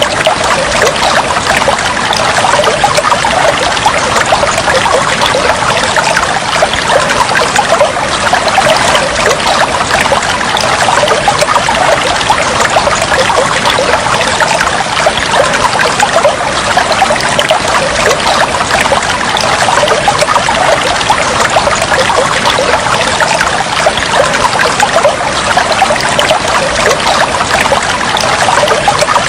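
Flowing, trickling water, a dense steady patter of small splashes and bubbles that does not change.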